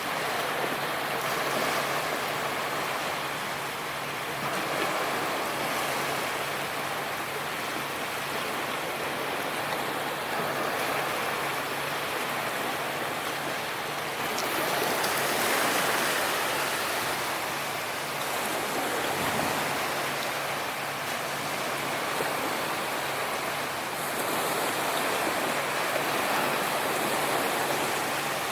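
Sea waves breaking and washing on the shore, a continuous rushing surf that swells and eases every several seconds as waves come in.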